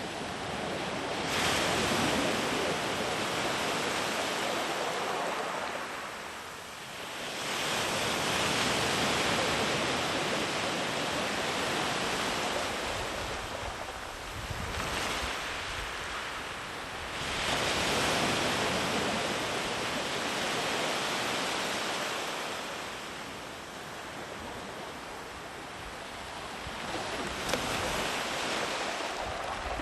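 Ocean waves breaking and washing up a beach, rising and falling in long surges every several seconds. A little wind buffets the microphone near the end.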